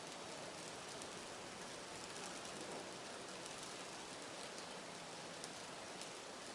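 Bioethanol fireplace burner flame burning: a steady soft hiss with a few faint ticks scattered through.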